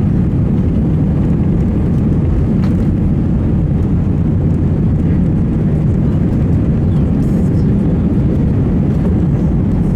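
Airbus A320 heard from inside the passenger cabin, its engines at high takeoff/climb thrust: a loud, steady low rumble and rush.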